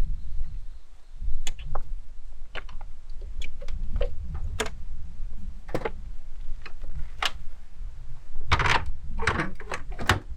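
Scattered light clicks and knocks of objects being handled, with a busier burst of rattling about eight and a half seconds in, over a steady low rumble.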